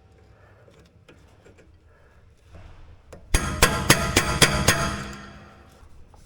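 A steel breaker bar tapping on pliers clamped onto a rear brake pad guide pin, driving the pin out of the caliper. There are a few faint clicks, then about three seconds in a quick run of about seven ringing metal taps.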